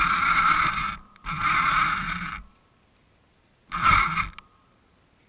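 RC car's motor and drivetrain running in three short spurts, the first ending about a second in, the second lasting about a second and a short one near the end. Heard close up from a camera mounted on the car.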